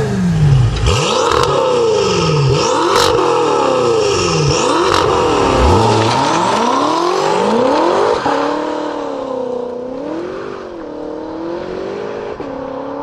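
BMW F10 M5's twin-turbo V8, through an Armytrix valved exhaust with downpipes, pulling hard through the gears: the engine note rises and drops back at each quick upshift, five or six times, with a sharp crack at several of the shifts. About eight seconds in it settles to a quieter, steady cruise with the pitch wavering slightly.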